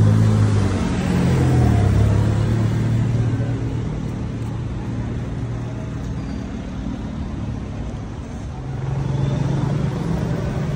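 A nearby motor vehicle's engine running, its pitch shifting in the first couple of seconds, then fading into a steady low traffic rumble; an engine hum comes up again near the end.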